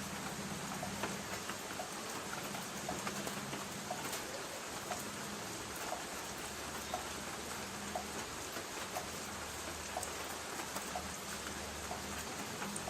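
Light rain pattering steadily on a tin roof, with a drip ticking regularly about twice a second.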